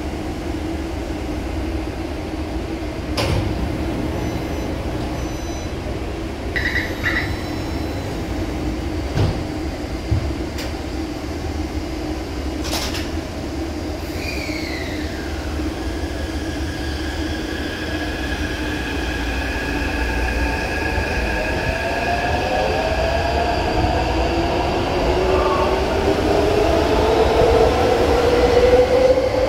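Taipei Metro train running on the Tamsui–Xinyi line: a steady hum with a few sharp clicks and a short falling tone, then several whining tones that rise in pitch and grow louder through the last third as the train picks up speed.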